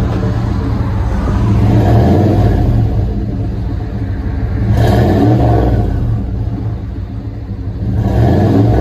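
1995 Chevy 1500's 5.7-litre V8 running through a Flowmaster Super 44 dual exhaust, revving or accelerating so the exhaust note swells and falls back three times over a steady low rumble.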